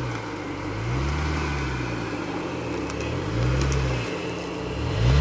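Jeep Wrangler's engine revving up and falling back in short pulses, about every one and a half to two seconds, as the driver feathers the throttle to crawl over rocks. A few faint clicks are heard among the revs.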